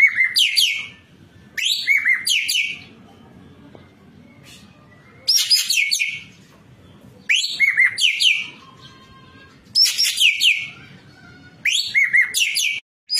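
Ekek keling bird calling in six loud bursts of rapid, high notes, each about a second long, with short pauses between them.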